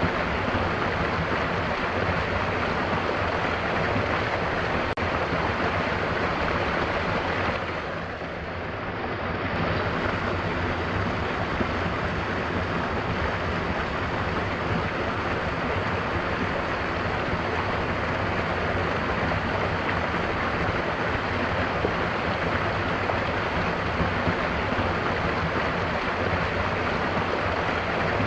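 Mountain waterfall rushing steadily, a continuous wash of falling water. It dips briefly in level about eight seconds in, then returns.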